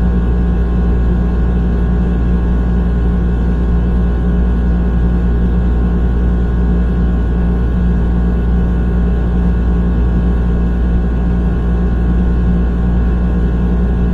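A loud, steady low drone with several held tones above it, unchanging throughout.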